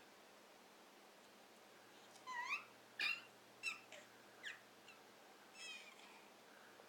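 A toddler's short, high-pitched squeals and squeaks: about five quick calls sliding in pitch, spread over a few seconds after a quiet start.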